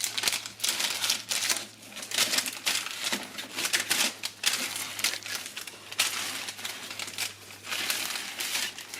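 Irregular crinkling and rustling with many small clicks, like thin material such as paper or foil being handled and crumpled.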